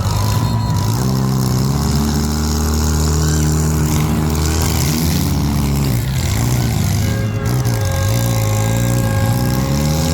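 Stock compact demolition derby cars' engines running. They hold fairly steady at first, then rev up and down in repeated swells during the second half.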